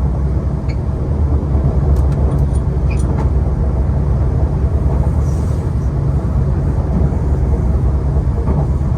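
Hyundai Rotem R-train electric multiple unit on the East Rail Line in motion: a steady, loud low rumble of wheels and running gear. A few sharp clicks come about two to three seconds in.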